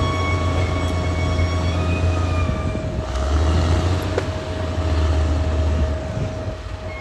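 Caterpillar D6R XL crawler bulldozer working: a deep, steady diesel engine rumble under load that eases slightly near the end, with a steady high-pitched whine from the machine over it.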